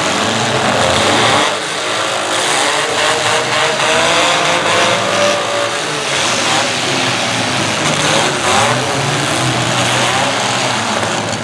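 Several demolition derby cars' engines revving hard, their pitch rising and falling, with a few knocks from the cars hitting each other.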